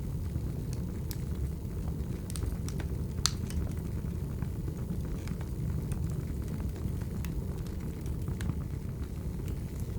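Wood fire burning: a steady low rumble of flames with scattered sharp crackles and pops from the logs, the loudest pop a little over three seconds in.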